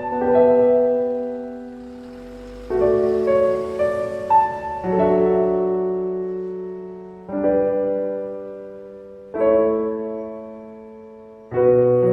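Slow solo piano music: sustained chords struck about every two seconds, each left to ring and fade, with a few single melody notes between them.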